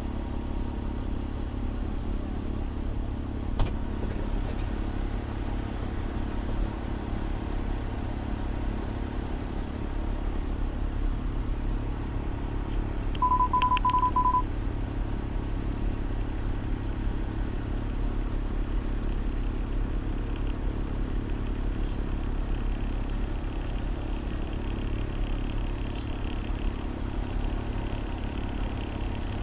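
Fire engine's diesel engine idling steadily, heard inside the cab. About halfway through, a quick string of five or six short, high beeps at one pitch comes in and lasts just over a second.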